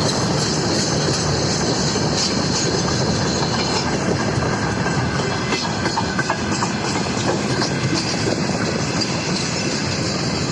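Freight train rolling past at steady speed, its wagon wheels clattering and clicking over the rail joints in an irregular run.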